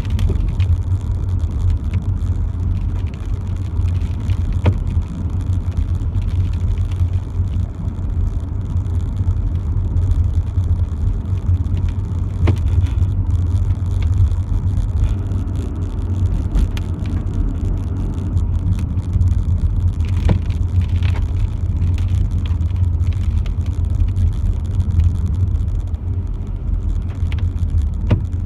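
Steady low rumble of a car driving, heard from inside, with three faint ticks about eight seconds apart.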